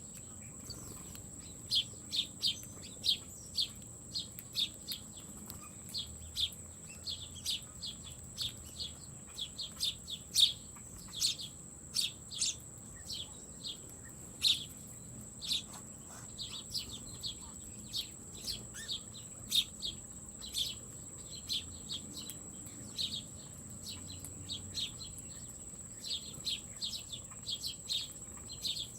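Small birds chirping: many short, high chirps at irregular intervals, with a steady high-pitched whine underneath.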